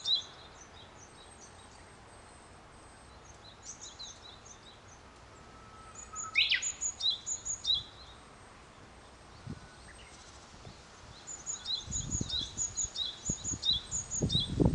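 Small wild birds calling: groups of short, high, quickly repeated chirps that come and go every few seconds over a steady outdoor hiss. Near the end a low rustling grows in.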